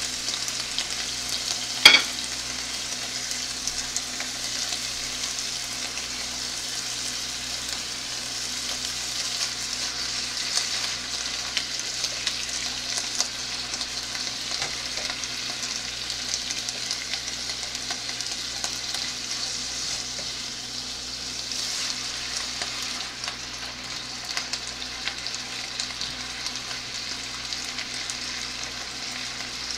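Beef and sliced peppers sizzling steadily in a frying pan as they are stirred and turned with a silicone spatula, with a single sharp tap about two seconds in.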